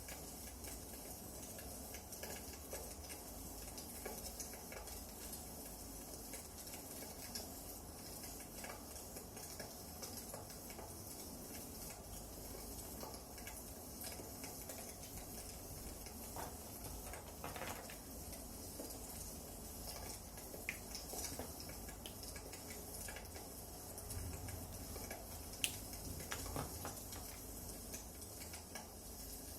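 Wood fire burning in a fireplace, a soft steady hiss with scattered small crackles and one sharper pop near the end.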